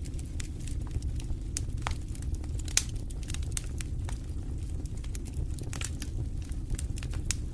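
Wood fire crackling in a fireplace: irregular sharp pops and snaps over a low steady rumble of the flames, with one louder pop about three seconds in.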